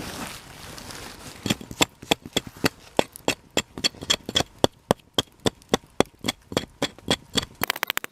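Tool scraping charred wood out of the hollow of a coal-burned wooden bowl, in short rhythmic strokes about three to four a second, with a quicker flurry near the end.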